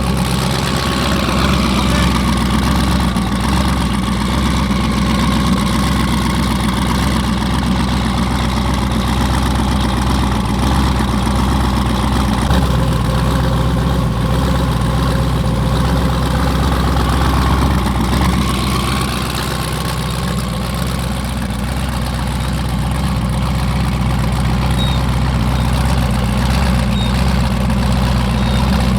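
Car engine idling steadily, with a low, even rumble and a slight dip in loudness a little past the middle.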